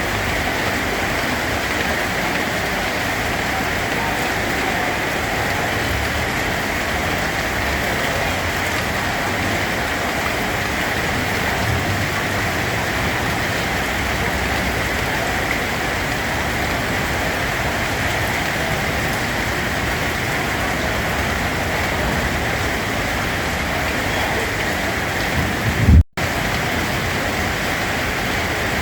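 Steady rain falling as an even, dense hiss. About 26 seconds in, a brief low thump is followed by a split-second cut-out in the sound.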